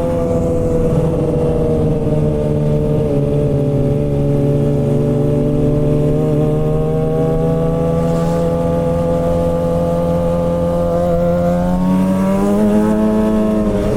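2007 Suzuki GSX-R 600 (K7) inline-four running on the road through a straight-piped M4 exhaust with no catalytic converter. The engine note dips a little at first, climbs slowly for several seconds, then rises more quickly about twelve seconds in.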